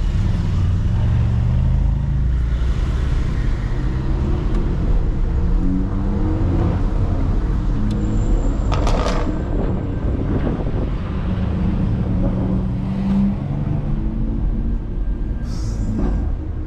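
BMW X3 M twin-turbo straight-six (S58) engines with loud aftermarket-sounding exhausts running hard in traffic, the engine note rising and falling as they accelerate and shift. A short run of sharp exhaust cracks comes a little past the middle.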